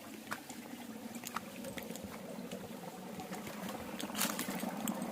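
Small stream water trickling and splashing over rocks and a poured-concrete weir, with many small sharp splashes and drips through it and a louder one about four seconds in.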